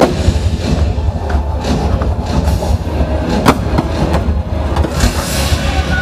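Aerial fireworks bursting overhead: a dense run of bangs and crackles over a constant low rumble. It starts suddenly, with one sharp crack about three and a half seconds in.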